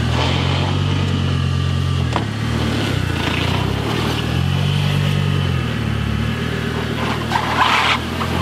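Car engine running near idle and revving up gently twice, about a second in and again around five seconds in, with a brief harsher noise near the end.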